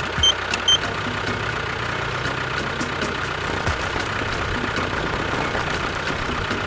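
An engine idling steadily with an even low pulse, with two short high beeps about half a second apart near the start.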